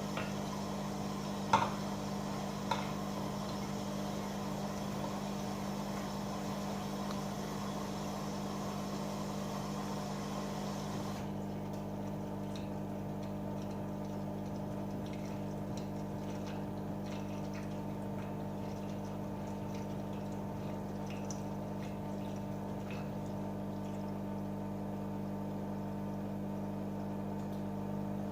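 AEG Öko-Lavamat 88840 washing machine early in a wash: a hiss of water running in over a steady hum, with a few sharp clicks in the first three seconds. The hiss cuts off suddenly about eleven seconds in, leaving the machine's steady hum with faint scattered ticks.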